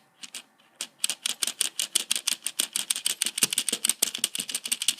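Rapid mechanical clicking: a few scattered clicks, then about a second in a fast, even run of sharp clicks, roughly ten a second.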